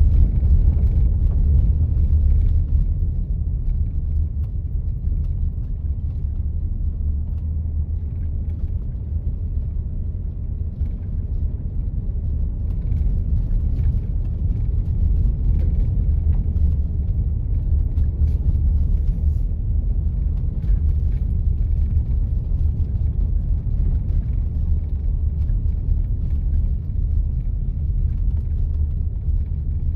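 Steady low rumble of a 4x4 driving on snow-covered roads, with faint scattered ticks over it.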